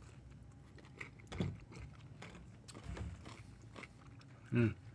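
A person biting into and chewing a crunchy dill pickle spear, with soft crunches and mouth clicks, and a short closed-mouth "mm" hum near the end.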